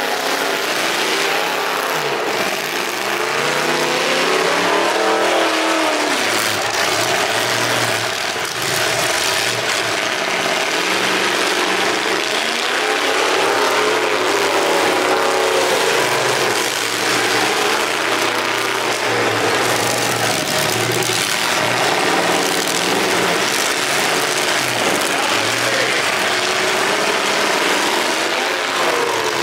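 Several demolition derby cars' engines revving up and down at once, their pitches overlapping and rising and falling over a steady noisy din.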